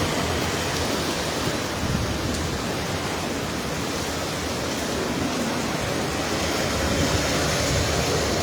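Hurricane wind and heavy rain, a steady rushing noise that does not let up.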